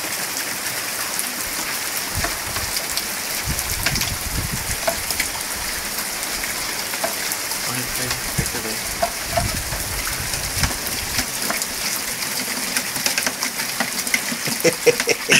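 Heavy autumn rainstorm falling on paving and hard surfaces: a steady hiss of rain with many fine drop ticks.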